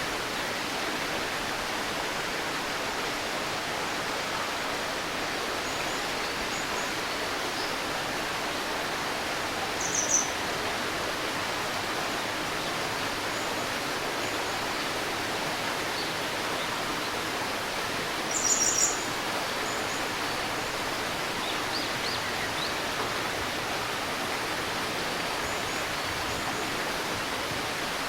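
A babbling river running steadily, with short high bird chirps: one about ten seconds in, a louder cluster a little past halfway, and a few faint ones after.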